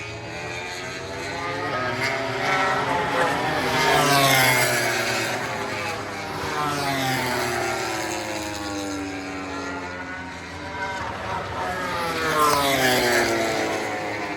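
MotoGP racing motorcycles going past at speed, twice, about eight seconds apart, each engine note swelling and then dropping in pitch as the bike goes by.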